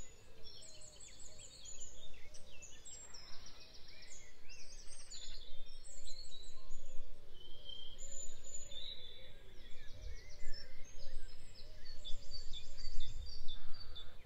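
Birdsong: several birds chirping and trilling in short, quickly repeated phrases, over a low background rumble.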